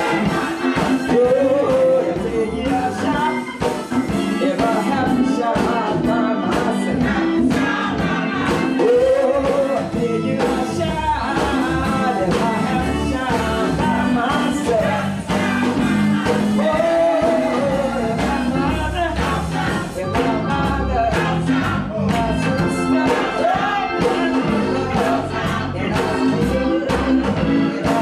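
Church gospel choir singing with instrumental accompaniment: a steady beat and bass under the voices.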